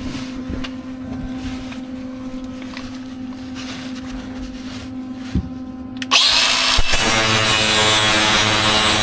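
A steady low hum, then about six seconds in an angle grinder starts up with a sudden loud whine and runs on, grinding the fresh welds on the steel exhaust pipe.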